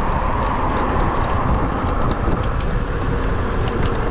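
Wind rushing over the microphone and city road traffic, heard from a moving electric bicycle.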